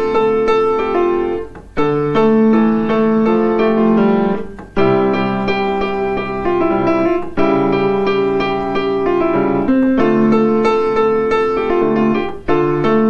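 Piano playing a gentle tune over sustained chords, in phrases broken by brief pauses.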